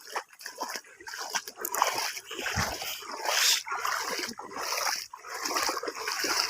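Repeated splashing of bare feet wading through shallow water in a flooded field, one uneven splash after another.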